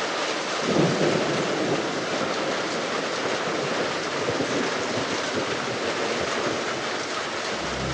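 Steady hiss of soft rain, with a low rumble swelling about a second in. Near the end a low steady drone comes in.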